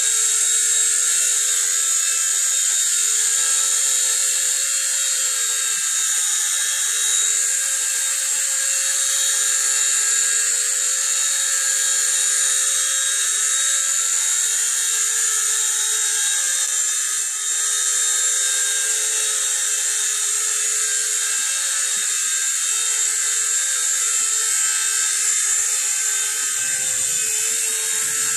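Nine Eagles Bravo SX micro RC helicopter's electric motors and rotors whining steadily with a high hiss, holding an even pitch throughout.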